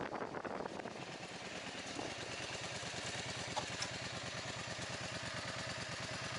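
Wind rush on the microphone dies away about a second in, leaving a motorcycle engine idling with an even beat.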